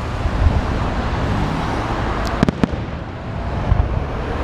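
Fireworks salute going off: dull booms of bursting shells and a quick cluster of sharp cracks about halfway through, over a steady background noise.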